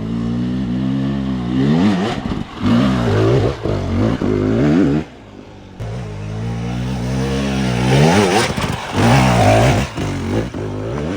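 Dirt bike engine revving in repeated throttle bursts, its pitch climbing and then dropping several times, with a short easing off about five seconds in before it pulls again.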